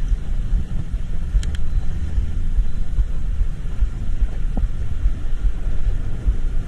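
Steady low rumble of a vehicle ride through traffic, with wind buffeting the microphone. A couple of faint clicks about a second and a half in.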